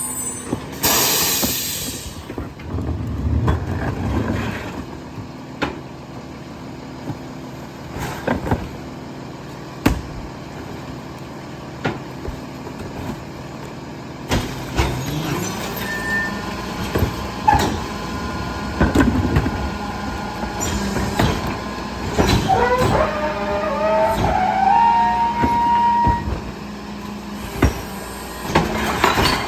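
Garbage truck packing recycling: a sharp air hiss near the start, then the engine running with repeated clanks and bangs. About halfway through the engine speeds up as the compactor works, with metal squealing later on.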